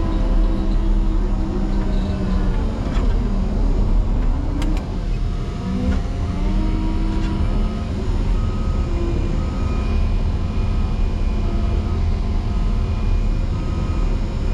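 Caterpillar 140M motor grader's diesel engine working hard in a deep snow drift, its revs dropping and climbing again several times in the first few seconds. From about halfway through, a short high beep repeats over the engine.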